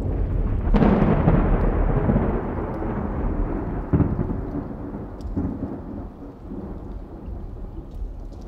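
Thunder: a clap about a second in that rolls on and fades over several seconds, then a shorter, sharper crack about four seconds in.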